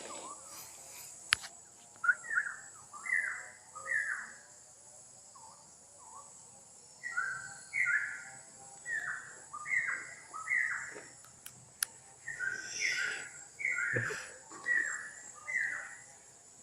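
A forest bird calling in short whistled notes that slide downward, one to two a second, in a brief bout and then a longer run. A steady high insect buzz sounds underneath.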